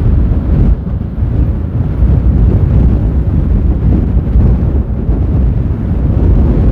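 Strong gusting storm wind buffeting the microphone, loud and uneven, with the level surging and dipping from gust to gust.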